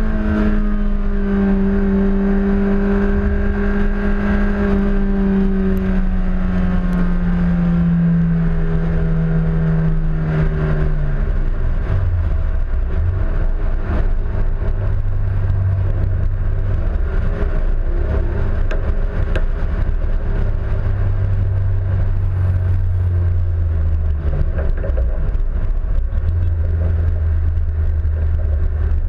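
Honda S2000's four-cylinder engine heard from outside on the fender. Its note falls slowly for about eleven seconds, then drops to a low, steady note for the rest, with a constant wind and road rumble on the microphone.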